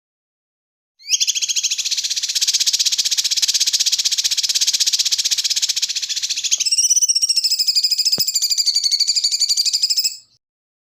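A small songbird's rapid high trill of fast repeated notes, lasting about nine seconds. About two-thirds of the way through it changes to a clearer, wavering trill, then stops abruptly.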